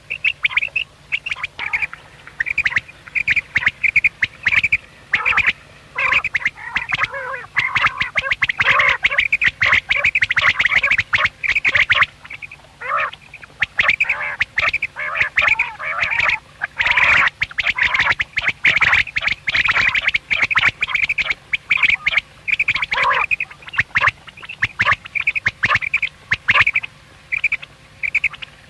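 Quails calling without let-up: many short, pitched calls overlapping one another, with a brief lull about twelve seconds in.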